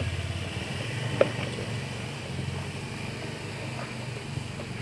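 A small engine running steadily, with a sharp click about a second in.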